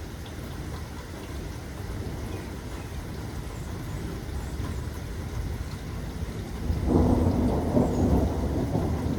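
Rain falling steadily with low thunder rumbling underneath; about seven seconds in, a louder roll of thunder breaks in and keeps rumbling.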